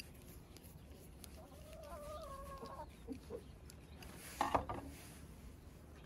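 Bird calls in the background: a held call about a second and a half in, then a louder, short call a little past four seconds. There are a few faint clicks of a screwdriver near the start.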